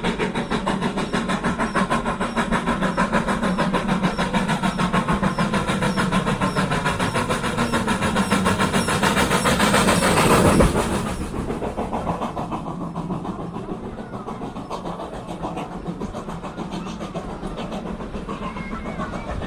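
Steam train passing at close range: a fast, steady beat builds to its loudest about ten seconds in, then drops away suddenly and carries on more quietly as the train moves off.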